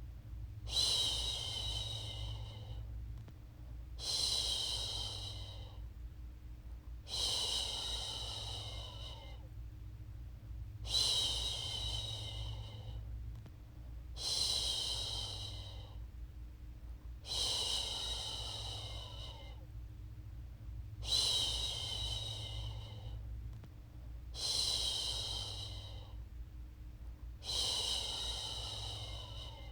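A woman's voice shushing "shhh" over and over to soothe a baby to sleep: long hissing shushes, one about every three seconds, nine in all.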